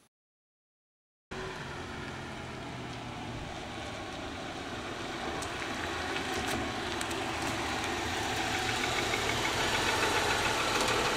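About a second of silence, then a Toyota sedan's engine running steadily, growing gradually louder.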